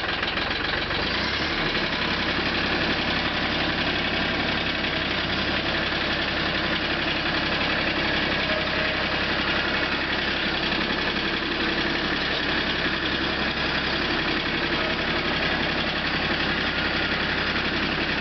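Mahindra Max 24 tractor's diesel engine, just started after glow-plug preheat, idling steadily; the low end of the sound settles about a second and a half in.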